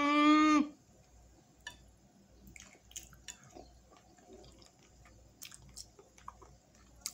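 A woman's held "mmm" of enjoyment at the start, rising then steady, then quiet wet chewing with small clicks and lip smacks as she eats saucy chicken wings close to the microphone.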